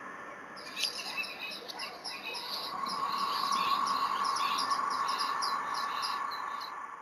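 Birds chirping in quick repeated high notes, about three a second, starting about half a second in and stopping near the end, over a steady humming drone.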